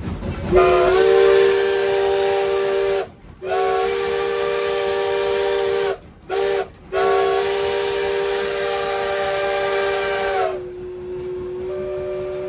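Steam locomotive whistle, Nevada Northern No. 81's, blowing the grade-crossing signal: two long blasts, a short one, then a long one. The whistle sounds a chord of several steady notes, and the last blast drops to a quieter, thinner tone about ten seconds in and is held on.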